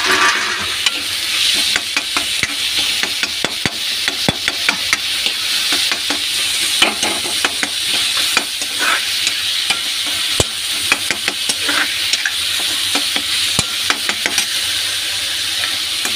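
Chopped tomatoes and onions sizzling in hot oil in a metal kadhai, stirred with a ladle that clicks and scrapes against the pan many times.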